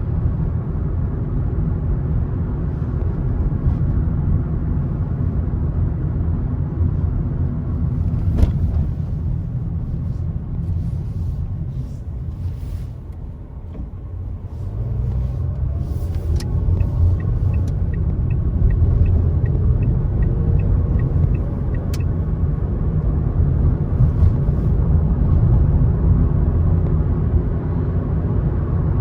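Car driving on the road: a steady low rumble of tyres and engine that dips briefly about halfway through, then builds again with a rising engine note. In the second half comes a run of light, even ticks, about two or three a second, for several seconds.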